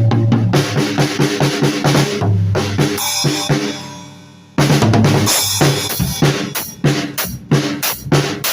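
Drum kit played loosely, bass drum and snare hits in quick succession. About three seconds in the playing stops and the sound dies away, then it starts again abruptly with loud, regular hits about a second and a half later.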